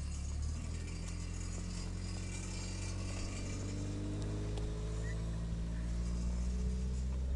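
A car engine running steadily, its pitch rising slowly.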